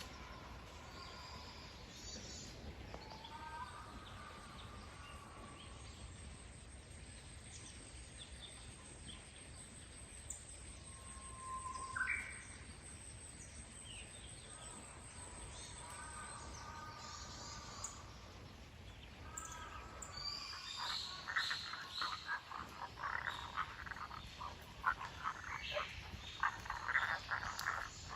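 Frogs calling, a chorus of rapid pulsing croaks that grows denser and louder in the second half, with occasional bird calls.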